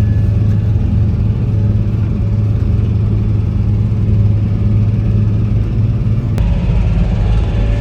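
Tractor engine running steadily with a deep drone, with a sharp click about six seconds in.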